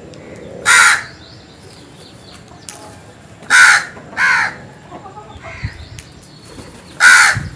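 Crow cawing: four loud caws, one about a second in, a close pair about three and a half seconds in, and one near the end.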